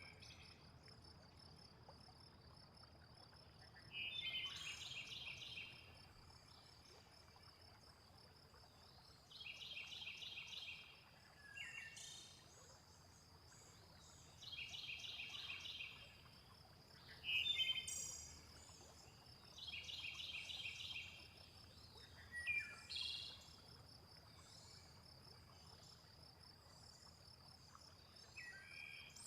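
Mixed nature soundscape: a steady, high insect trill throughout, a pulsed, rasping call of about a second and a half that repeats roughly every five seconds, and a few short bird chirps in between.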